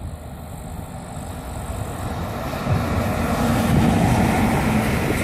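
Freight train hauled by a DB Class 151 electric locomotive passing, the rumble of the locomotive and its wagons on the rails growing steadily louder as the train draws level.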